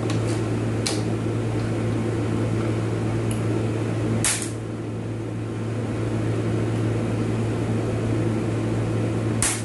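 Steady low machine hum, like a fan, running throughout, with a few small clicks and two short, hissy bursts about four seconds in and near the end, from work on a dismantled automatic transmission.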